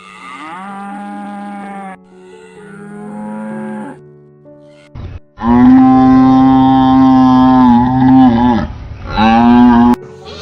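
A cow mooing: two moderate calls, then a loud, long moo lasting about three seconds and a shorter one near the end, over faint background music.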